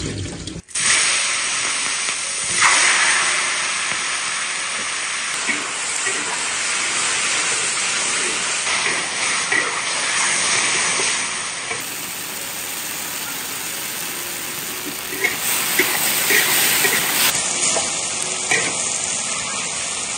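Mushrooms sizzling steadily in hot oil as they are stir-fried.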